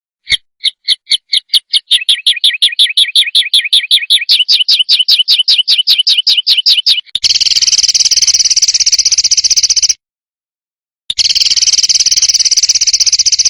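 Songbird song from a masteran recording. First comes a fast, even series of sharp chirps, about seven a second. Then come two harsh buzzing rattles of about three seconds each, with a second of silence between them: the rasping 'besetan' type of call used to teach competition birds.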